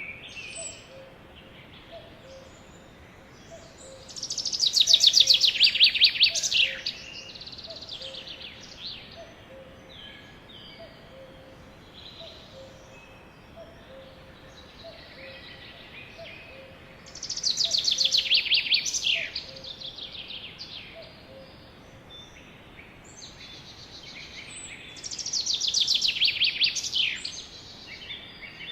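Sparrows singing: three loud trilled songs of about two seconds each, a few seconds in, midway and near the end. Between them, other birds chirp softly and a faint low note repeats about once a second.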